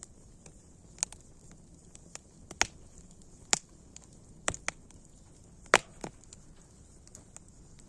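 Wood fire crackling: irregular sharp pops and snaps, about a dozen, the loudest a little past the middle, over a faint steady hiss.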